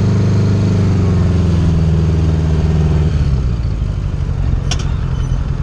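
A 1980 Honda Goldwing's flat-four engine running on the move. The steady engine note holds for about three seconds, then turns rougher and lower, as when the throttle is eased off. A single short click comes near the end.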